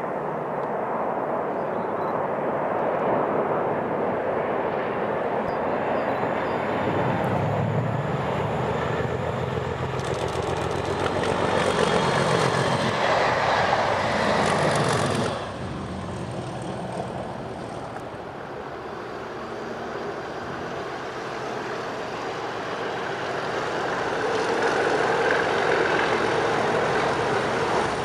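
Pair of Class 37 diesel locomotives, each with an English Electric V12 engine, working a train top-and-tail past the listener. The engine sound builds with shifting pitch, drops away suddenly about halfway through, then rises again near the end as the second locomotive approaches.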